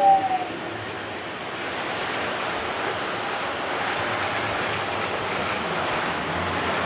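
A model train's two-note horn cuts off about half a second in, followed by the steady rushing rumble of the model train running along the layout's track.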